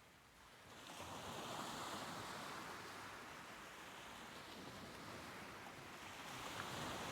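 Ocean waves breaking and washing up the shore: one wave surges in about a second in and slowly eases off, and another builds near the end.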